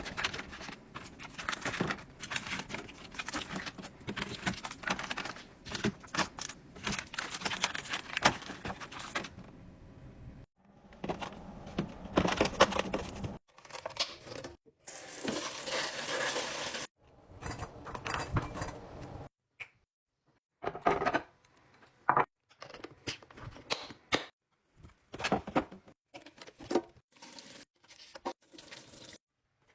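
Restocking handling sounds: plastic packaging crinkling and tearing, and bottles, cans and containers clinking and clattering as they are set in place. They come in short stretches that stop abruptly, with a steadier rushing hiss about halfway through.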